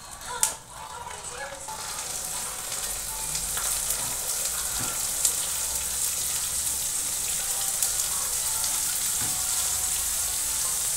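Cubed brinjal frying in hot oil in a kadhai: a steady sizzle that builds over the first two seconds and then holds, with a few sharp ticks near the start.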